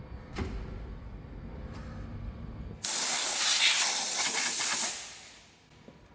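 Low machine hum from the milling machine with a sharp click, then about three seconds in a sudden loud hiss of compressed air lasting about two seconds and tailing off, typical of an air blow gun clearing chips after drilling.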